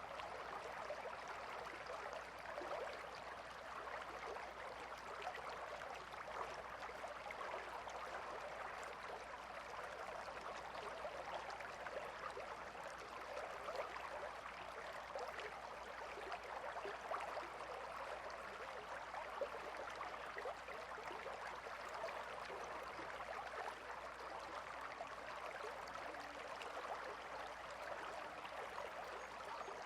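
A calm river flowing steadily, a constant rush of water with no pauses or separate events.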